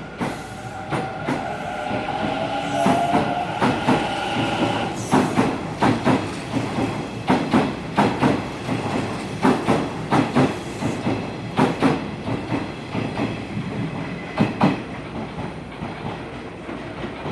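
Hanshin 1000 series electric train pulling out of the station: an electrical whine for the first few seconds, then its wheels clacking repeatedly over rail joints and points as it moves off.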